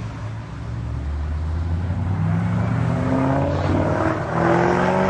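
A car engine accelerating hard, its pitch climbing steadily, getting louder in the second half.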